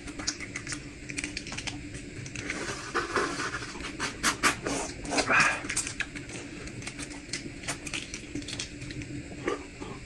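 Close-miked eating sounds: irregular small clicks and smacks of chewing, with a few louder, breathier bursts about three and five seconds in.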